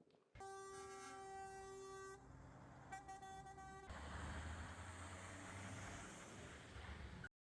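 Truck horn sounding twice, a long blast and then a shorter one, followed by a heavy vehicle's engine rumbling. The sound stops abruptly near the end.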